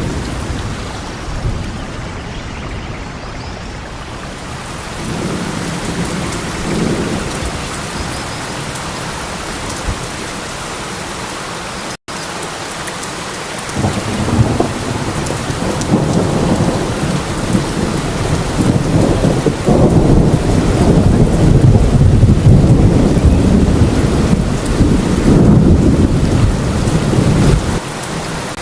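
Steady heavy rain with rolling thunder. A low rumble swells briefly a few seconds in, then a long rumble builds from about halfway, is loudest in the last third and fades just before the end. The sound cuts out for an instant about twelve seconds in.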